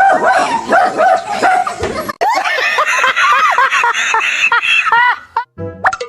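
Dog barking and yelping in quick, pitched cries. About two seconds in the sound cuts abruptly to another run of higher-pitched cries.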